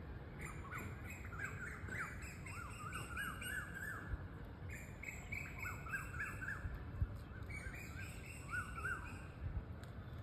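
Small birds chirping in several quick runs of short notes that rise and fall, with thin, high twittering above them, over a steady low background rumble.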